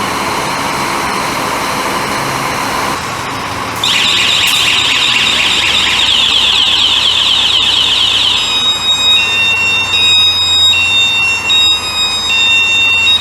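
A truck engine running, then about four seconds in a loud electronic alarm starts: a fast warbling tone that about halfway through turns into a pattern of alternating high beeps on two pitches.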